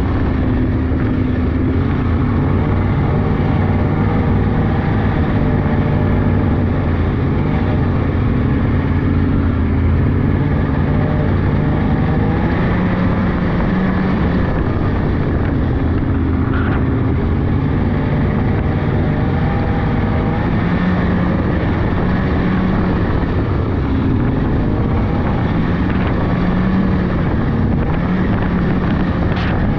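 Polaris 600cc two-stroke snowmobile engine running steadily under way along a trail, its pitch drifting gently up and down with the throttle. A few sharp clicks come right at the end.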